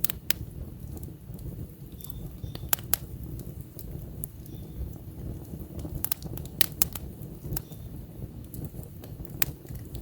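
Wood campfire burning, a steady low rumble of flame with irregular sharp crackles and pops from the logs, a few of them loud.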